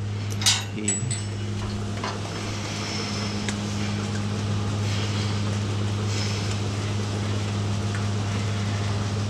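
Milking shed machinery running with a steady low electric hum, with a sharp click about half a second in.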